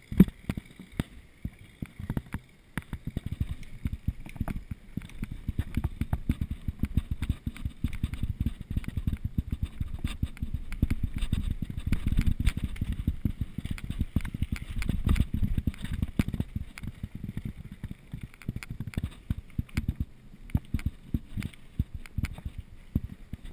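Mountain bike rattling and clattering over rough ground as it rolls downhill, with a continuous low rumble.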